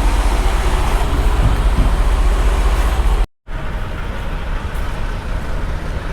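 A semi truck's diesel engine idling, a steady low rumble with an even pulse and a hiss over it. The sound cuts out completely for a moment about halfway through.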